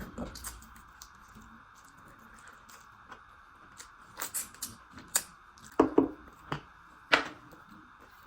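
Close-up eating sounds: chewing and handling of rice and chicken curry, with a run of sharp clicks and crunches from about four to seven seconds in, over a steady low hiss.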